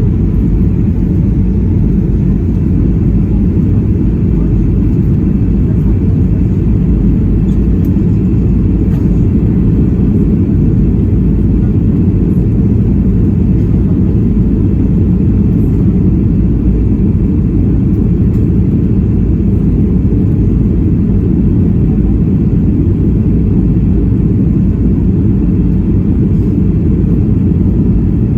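Steady low rumble in the cabin of a Boeing 737-800 in flight, from its CFM56-7B engines and the air rushing past the fuselage, heard from a seat in the rear of the cabin.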